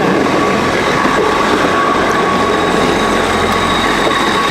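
Class 159 diesel multiple unit running at the platform: a steady, loud drone with a thin high whine held throughout.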